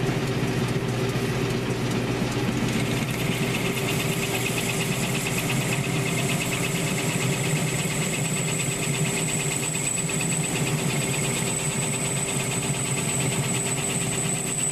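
1942 South Bend lathe running under power while its tool takes a cut on a scooter wheel: a steady motor-and-drive hum, with a fast fine chatter from the cut coming in about three seconds in and a thin high whine joining about six seconds in.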